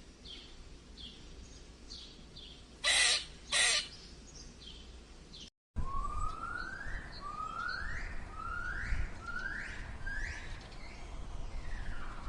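Bird calls. About three seconds in come two short harsh calls. After a brief break come five rising calls, about one a second, over a low rumble.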